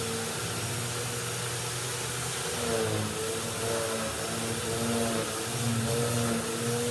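Vacuum cleaner running steadily, its motor tone wavering slightly in pitch, with a low hum that fades out and back in a few times.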